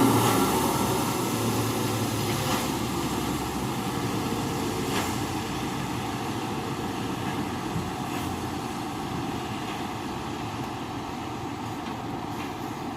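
Dump truck engine and tyre noise fading steadily as the truck drives away after passing close by, with a few faint knocks from the truck.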